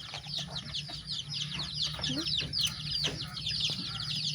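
Domestic chicks peeping continuously, many short high falling peeps overlapping several times a second, with a steady low hum underneath.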